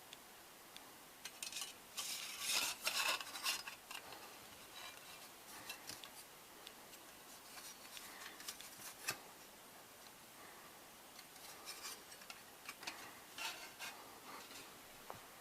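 Light sheet-metal parts of a small tabletop fire pit clinking and scraping as they are handled, in irregular bursts, busiest about two to four seconds in and again near the end.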